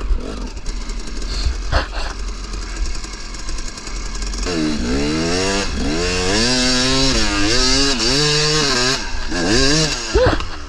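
KTM 300 two-stroke dirt bike engine, quiet at first, then from about four seconds in revving up and down repeatedly as the throttle is worked, with wind buffeting the microphone.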